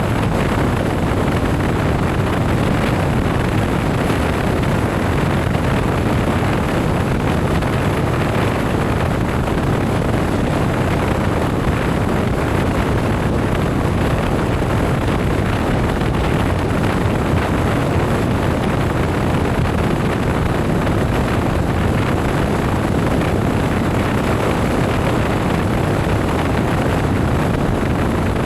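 A motorcycle riding at a steady speed: wind rushing over the microphone mixed with engine and road noise, loud and unbroken.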